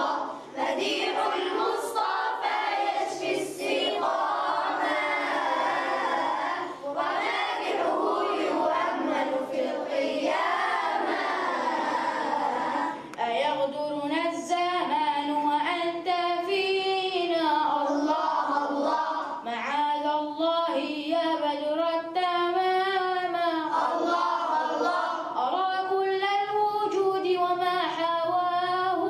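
Young voices singing an Arabic madih in praise of the Prophet, unaccompanied. For the first half it is a group singing together; from about halfway a single voice carries an ornamented, wavering melody.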